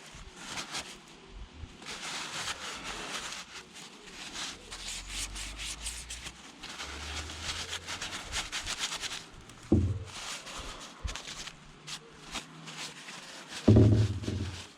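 Rubbing and scraping of hands working on motorbike parts, with a dull knock about ten seconds in and a louder knock near the end.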